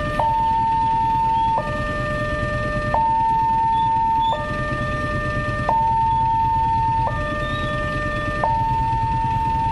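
Electronic warning alarm of a railway level crossing, sounding continuously as a two-part cycle: a single steady tone, then a two-note chord, each held for about a second and a half before switching back. The alarm signals that a train is approaching and the crossing is closing. A low steady rumble sits underneath.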